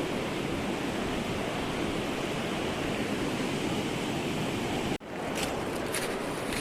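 Ocean surf washing on a beach, a steady rushing noise. The sound drops out abruptly for an instant about five seconds in, then resumes with a few faint high ticks.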